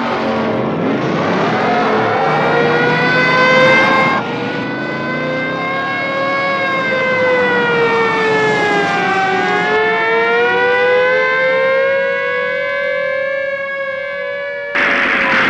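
Police sirens wailing, their pitch gliding slowly up and down. Near the end a sudden loud rushing noise cuts in over them.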